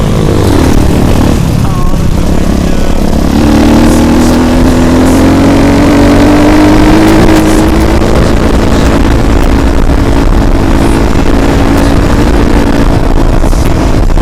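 Motorcycle engine running under way over a loud low rumble; from about three seconds in its note climbs slowly as it speeds up, then holds steady.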